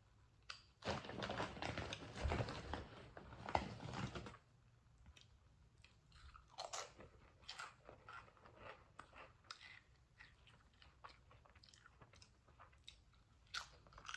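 A person crunching and chewing barbecue chips. There is a dense run of loud crunches for about three and a half seconds near the start, then softer, scattered chewing clicks.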